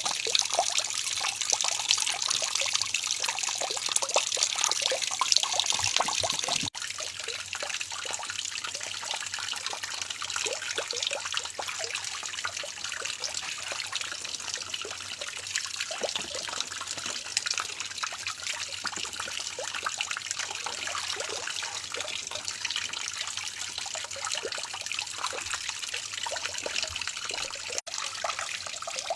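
Water running and trickling with small splashes. It is louder for the first few seconds, then drops suddenly to a softer level.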